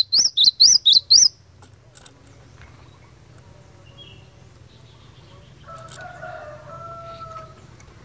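Cinereous tit (glatik batu) singing a fast run of sharp, repeated chirps, about five a second, that breaks off a little over a second in. About six seconds in, a fainter, lower, drawn-out call sounds in the background over a low hum.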